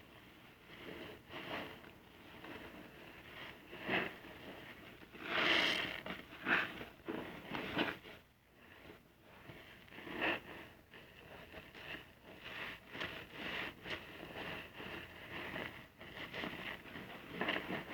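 A soapy car-wash sponge being squeezed and rubbed into a lather: wet squishing and crackling strokes at an irregular pace, loudest about five to seven seconds in.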